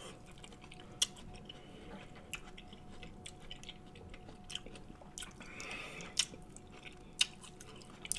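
Close-miked chewing of buttery corn on the cob, with a handful of sharp wet mouth smacks a second or two apart.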